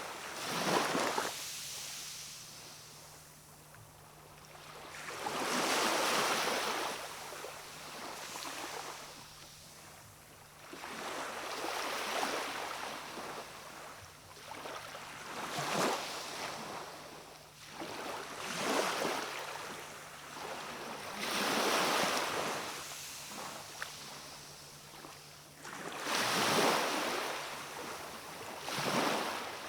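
Small waves of a calm sea breaking and washing on the shore, a swell of surf about every three to four seconds, with a faint steady low hum underneath.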